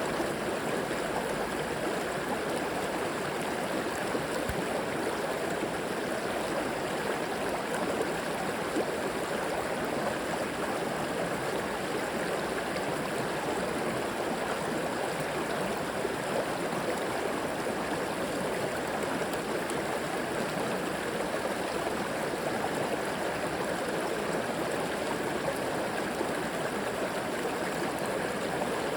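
A river flowing: a steady, even rush of water with gurgling over stones.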